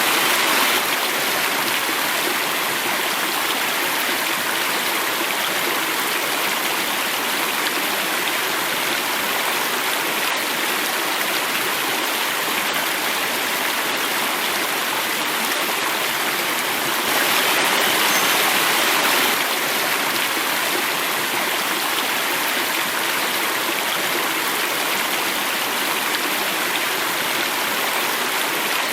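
Stream water flowing and falling in a cascade, a steady splashing flow, a little louder for a couple of seconds about two-thirds of the way through.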